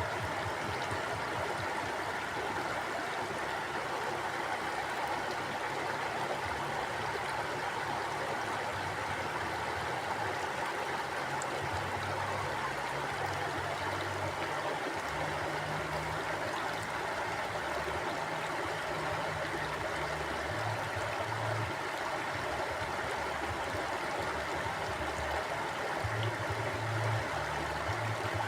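Mountain stream flowing: a steady rush of running water, with an uneven low rumble beneath it.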